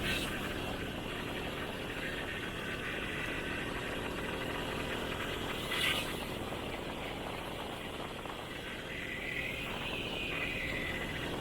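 Motorbike ride road noise: wind rushing over the microphone, with the motorbike's engine running underneath. A short sharp sound stands out about six seconds in.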